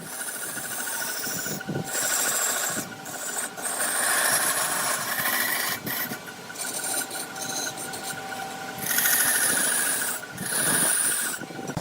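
Turning tool scraping against wood spinning on a large wood lathe: a continuous rasping scrape over the lathe's steady hum, breaking off briefly several times as the tool lifts from the wood.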